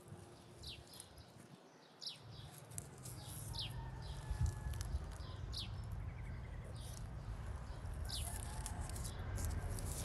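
Small bird chirping repeatedly: short, high notes that slide downward, roughly once a second, over a low steady rumble.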